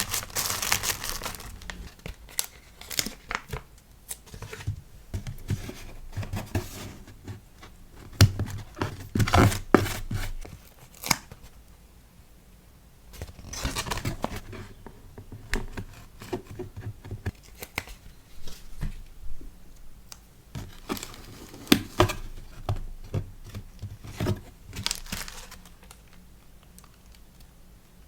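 Packing materials for a sticker order being handled: crinkling and tearing in irregular bursts, with sharp clicks and taps and a few short pauses.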